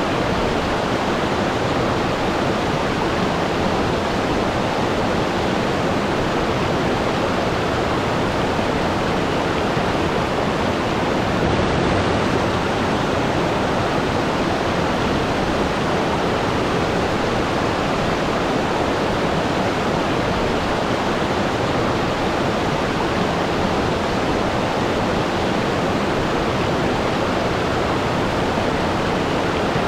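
Waterfall: water falling and splashing in a steady, even rush, with no changes.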